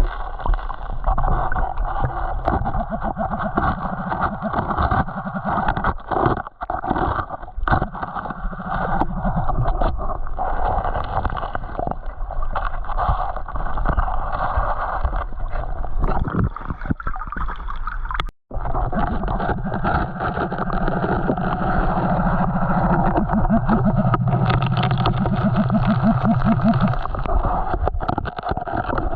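Creek water sloshing and gurgling around a person wading through it.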